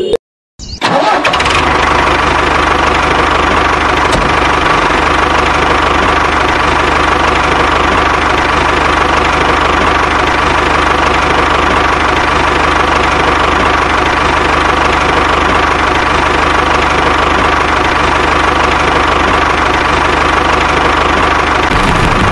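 An engine starts up after a moment of silence, then runs at a steady idle.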